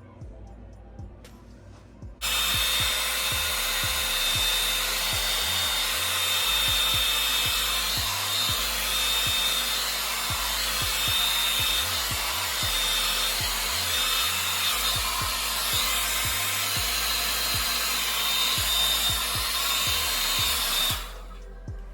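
Hair dryer blowing steadily with a faint high whine, switched on about two seconds in and off about a second before the end, drying the glue under a lace front wig.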